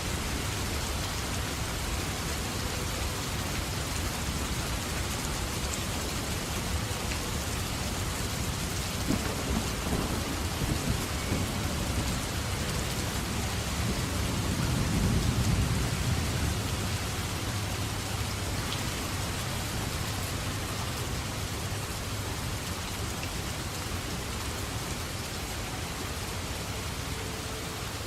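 Steady rain falling, with a low rumble of thunder that builds about a third of the way in, is loudest around the middle, then fades.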